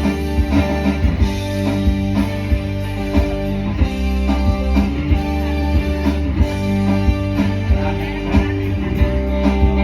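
Live band playing a rock-style passage led by guitar, with deep bass notes and a steady drum beat.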